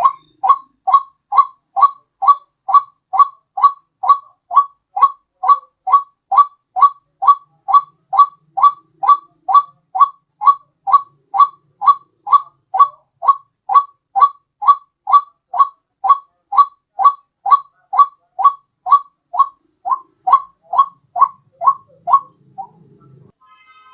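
White-breasted waterhen call played as a bird lure: one short, pitched "ruak" note repeated evenly about twice a second. The calling breaks off briefly near the end.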